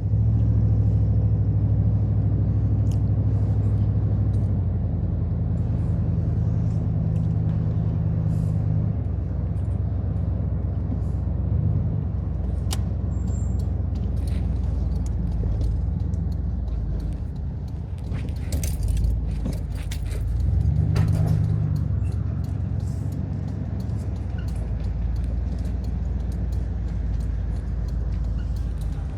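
Inside the cabin of an SUV with a V8 engine while driving: steady engine and road rumble whose pitch steps down and rises again a few times as the engine speed changes. Light clicks and rattles come in now and then, most of them a little past the middle.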